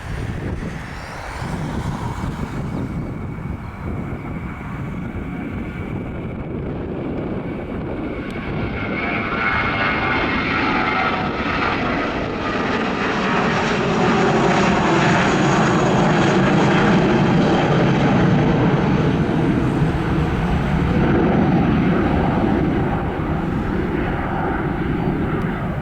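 Airliner engines passing close by. The noise swells over the first several seconds, holds loud through the middle and eases slightly near the end.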